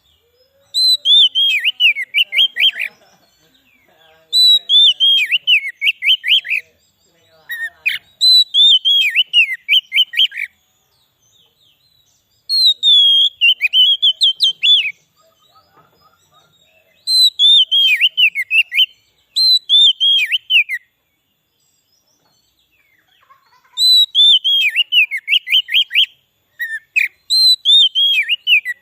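Oriental magpie-robin song: short phrases of quick whistled notes that start high and break into rapid falling-and-rising chips, repeated about nine times with pauses of one to three seconds between them.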